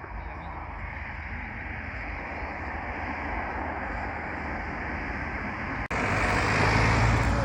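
Car noise, engine and tyres, growing steadily louder as a car approaches. About six seconds in, the sound cuts off abruptly and returns louder, as at an edit splice.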